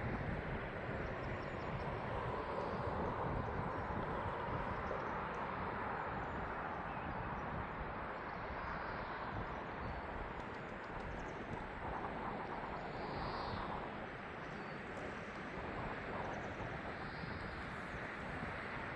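Steady outdoor ambience: an even low rumble with no distinct events.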